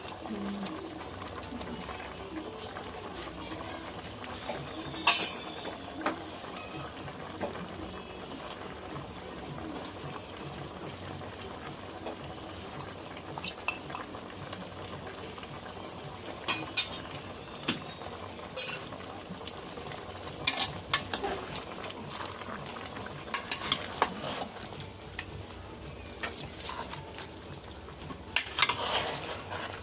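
Chicken frying in a pan with yogurt and spices being stirred (bhunao), with a steady low sizzle and scattered sharp clicks and scrapes of the spoon against the pan.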